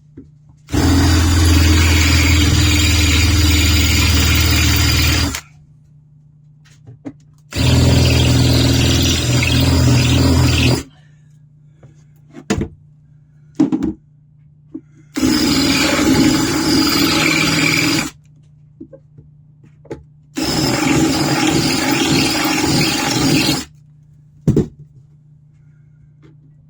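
Electric drill running in four bursts of three to five seconds each, enlarging a hole in a snow shovel so a screw will fit. Short clicks and knocks fall between the bursts.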